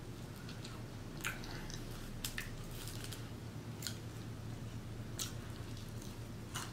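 A person chewing a mouthful of French fries close to the microphone, with scattered soft wet mouth clicks and smacks over a low steady hum.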